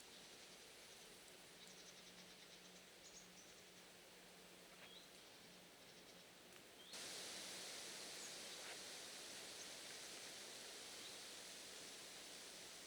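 Near silence: faint woodland ambience, a steady hiss with a few short, faint bird chirps. About seven seconds in the background hiss suddenly steps up louder and stays there.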